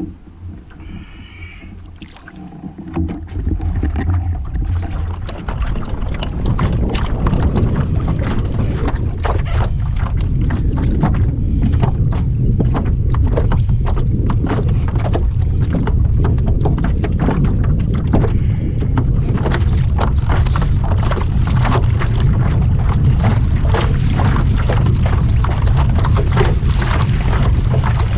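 Kayak out on the water: a loud low rumble of wind buffeting the microphone, with water slapping and small knocks against the hull, building up about four seconds in.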